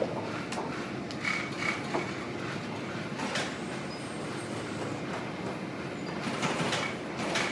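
Workshop machinery running steadily, with scattered clicks and knocks over the hum.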